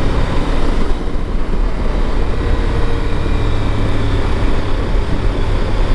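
Motorcycle engine running at a steady cruising speed, with a steady rush of wind noise over it.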